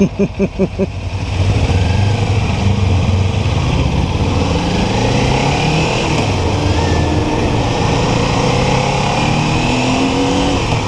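Kawasaki Ninja 400 parallel-twin motorcycle engine pulling away and accelerating through the gears, its pitch climbing and dropping at each shift, under heavy wind noise. A few short quick pulses come in the first second.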